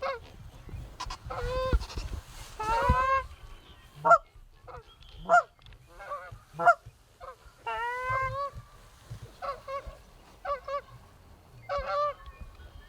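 Canada goose honks: a run of loud two-note honks and short clucks, roughly one call a second, each rising and falling in pitch.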